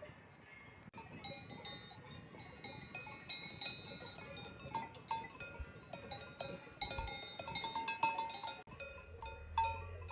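Many cowbells on grazing cattle clanking irregularly, several bells of different pitch ringing over one another.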